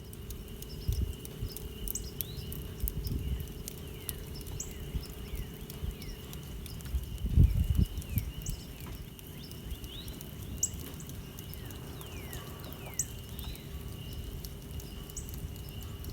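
Outdoor farm ambience: birds chirping with many short downward-sliding calls over a steady high insect-like drone and a low rumble. A louder low thump comes about seven seconds in.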